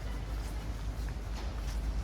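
Footsteps on stone paving, light irregular steps, over a steady low rumble.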